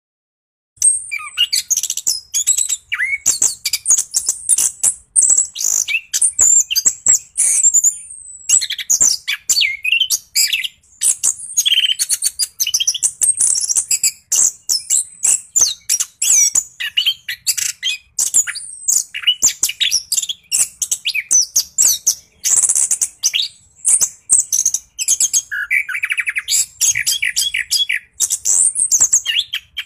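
Orange-headed thrush (anis kembang) singing in a long, nearly unbroken rolling song of fast, varied, high chirps and trills, starting about a second in. It is the lively song that bird-keepers play to get a quiet thrush to start singing.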